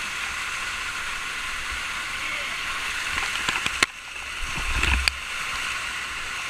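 Waterfall rushing steadily, with a few sharp clicks a little past the middle and a brief low rumble soon after.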